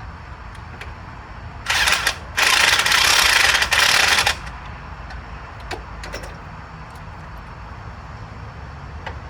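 Power wrench running bolts down in two bursts, a short one and then a longer one of about two seconds, while a spacer is bolted in during a CV axle job. Faint metal clicks come before and after.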